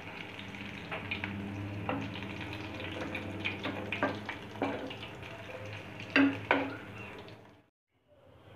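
Poha cutlets frying in hot oil in a kadai: a steady sizzle, with a metal slotted spatula clicking and scraping against the pan as they are turned, loudest about six seconds in. The sound cuts out for a moment near the end, then the sizzle comes back more quietly.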